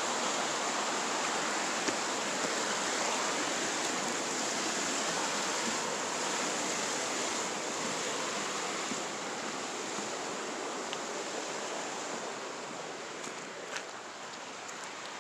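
Creek water rushing steadily, slowly growing quieter, with a few light clicks near the end.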